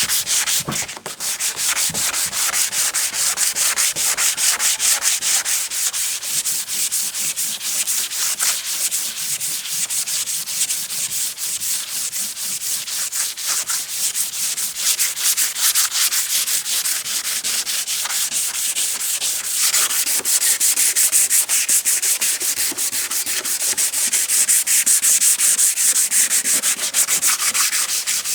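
Rapid, even back-and-forth sanding strokes, several a second, rubbing abrasive over a hard surface with a hissing scratch.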